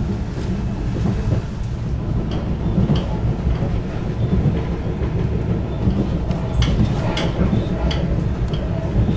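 Diesel railcar running along the track: a steady low rumble of engine and wheels, with a few sharp clicks from the wheels over the rails.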